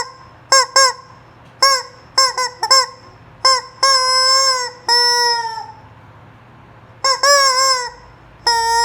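Rubber squeaky chicken toy being squeezed over and over, giving nasal honking squawks all at the same pitch. It starts with a quick run of short squawks, then gives a few long drawn-out ones that sag in pitch as they end, and after a short pause comes another burst of honks near the end.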